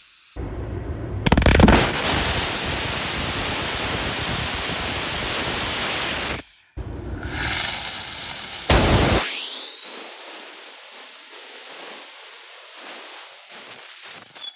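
Small ethanol/oxygen liquid rocket engine firing twice, in two separate firings. Each lights with a loud sudden burst and then runs with a steady, loud rushing hiss. The first firing stops about six and a half seconds in. About two seconds into the second, the deep part of the sound falls away, leaving a thinner hiss.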